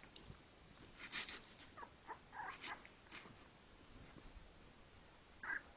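Sleeping puppies whimpering and squeaking faintly: a soft rustle, a few short thin squeaks, then a louder high whimper just before the end.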